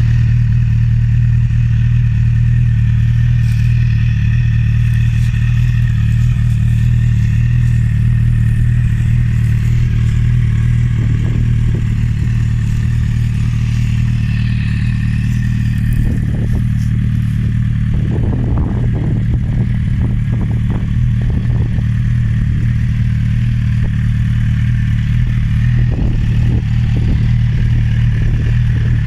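Suzuki GSX-R1000 K7/K8 inline-four sportbike engine idling steadily through an aftermarket Bodis exhaust, with a few short clattering noises over it in the second half.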